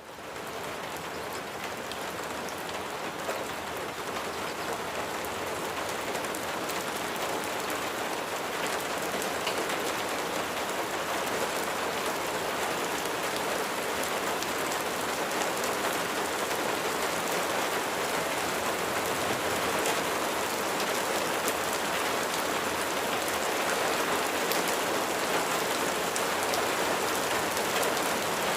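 Steady rain falling, an even hiss of many small drops. It fades in out of silence at the start and grows slowly louder.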